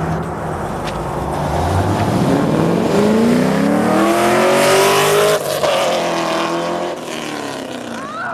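Car engine and exhaust revving up from idle: the pitch climbs steadily for about three seconds, breaks off for a moment about five seconds in, holds high, then drops back toward idle near the end.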